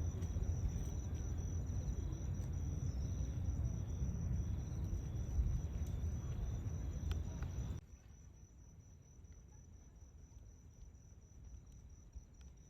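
Low wind rumble on the microphone, with the shore's waves, that cuts off suddenly about eight seconds in. Under it and then alone, a steady high-pitched insect chirping, evenly pulsed, carries on throughout.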